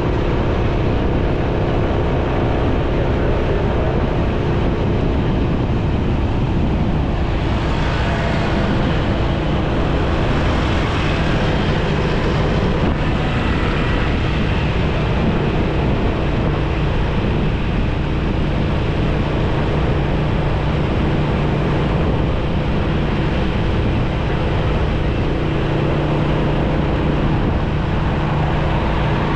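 A motorcycle running steadily while being ridden, its engine hum mixed with wind and road noise.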